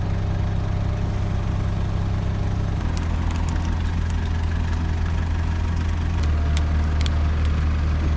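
A vehicle engine running steadily, its low note dropping a little in two steps, about three and about six seconds in, with a few scattered light clicks over it.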